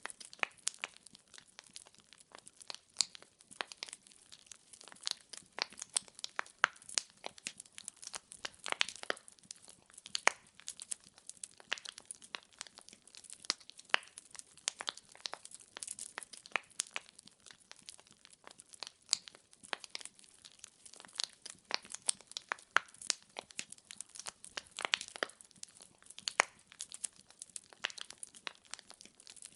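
Wood fire in a fireplace crackling, logs popping and snapping in quick irregular clicks over a faint hiss.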